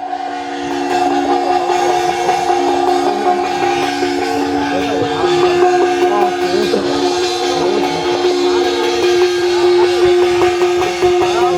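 Traditional Chinese ritual band music: several instruments holding long steady notes together, with a wavering melody and some percussion over them.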